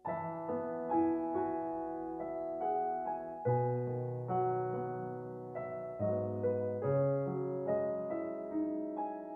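Background piano music starts abruptly: a slow melody of held notes over low bass notes.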